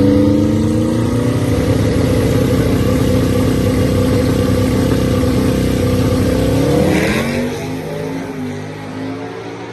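A drag-racing street car's engine held at high revs down the track at a steady pitch. About seven seconds in, the note sweeps up and falls as the car goes past, then fades away into the distance.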